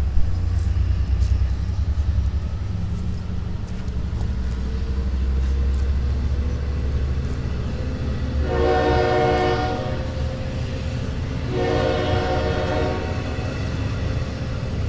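Long Island Rail Road diesel locomotive's K5LL air horn sounding two long blasts, a little over a second apart, over the steady low rumble of the locomotive's running diesel engine.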